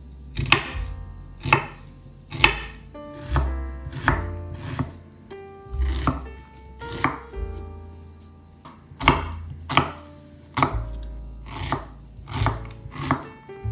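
A kitchen knife chopping an onion on a cutting board, sharp strokes coming irregularly at about one a second, over background music with a bass line.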